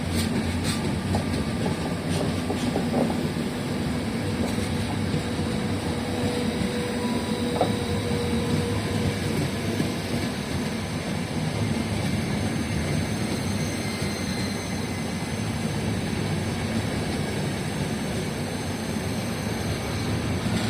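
Train running on the railway line: a steady rumble of wheels on track that holds its level throughout.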